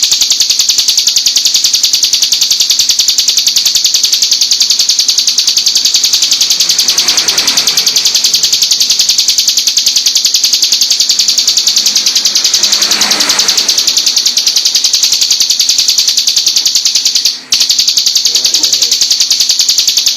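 Ciblek gunung (a prinia) singing a loud, continuous, very rapid high-pitched trill. This is the nonstop 'full tembak' song used as a tutor recording, and it breaks off for a moment about 17 seconds in.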